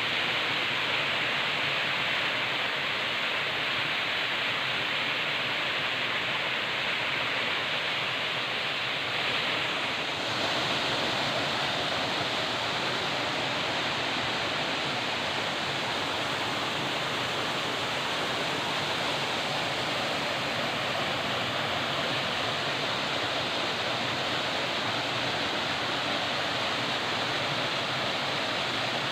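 Forest river water rushing steadily, an even, continuous hiss of flowing water.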